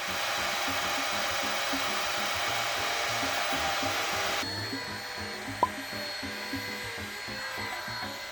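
Roborock robot vacuum running with a steady rush of suction noise. About four and a half seconds in, the noise drops to a quieter level with a faint high whine, and a brief rising tone follows a second later. Background music plays underneath.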